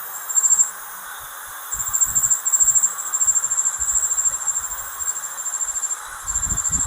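Drill bit boring into the steel loader bucket, giving a high, thin squeal in bursts: briefly near the start, then for about four seconds, then again near the end. The bit is one the driller judges not very good.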